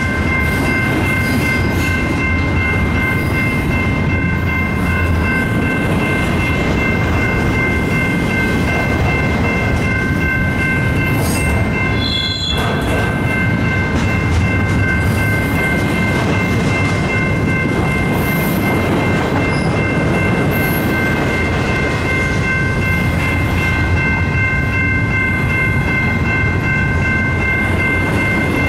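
Double-stack intermodal container train of well cars rolling steadily past: a constant rumble with wheels clicking over rail joints and cars rattling. A steady high ringing from the grade-crossing bell runs under it throughout.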